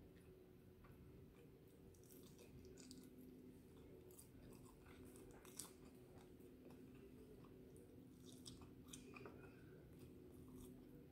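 Faint chewing and biting of barbecue chicken wings, with scattered small crunches and wet mouth clicks, the sharpest about halfway through. A faint steady hum sits underneath.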